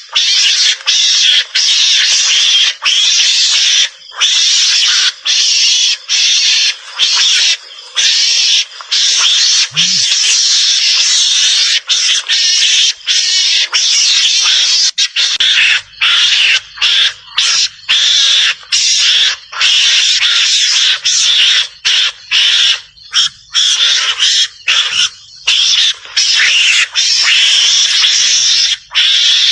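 Mongoose (garangan) lure call: harsh, raspy chattering screams in long runs broken by many brief pauses, the kind of recording played to draw mongooses out. A brief low thump about ten seconds in.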